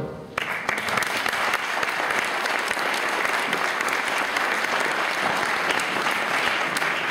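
School-auditorium audience applauding steadily after a children's song, the clapping starting about half a second in and fading near the end.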